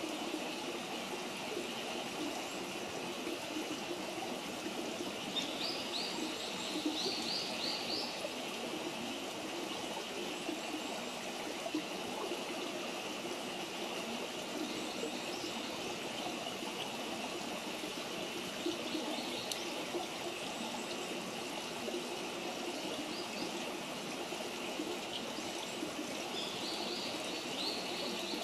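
Steady running-stream noise, trickling and even. A small bird calls in a quick run of short notes twice, a few seconds in and again near the end, and a few faint pops come through.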